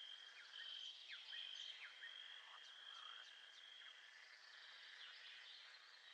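Faint nature ambience: a steady high-pitched trill with short, quick falling chirps over it, typical of a night chorus of frogs and insects.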